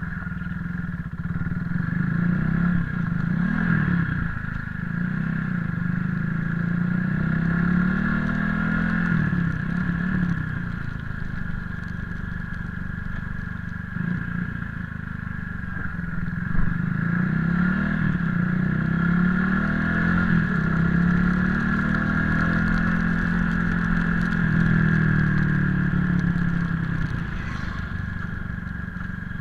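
Motorcycle engine running while riding, its revs rising and falling several times, over a steady high-pitched whine.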